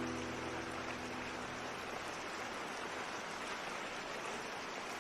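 Steady rain hiss, with the last strummed acoustic guitar chord ringing out and fading away over the first second or so.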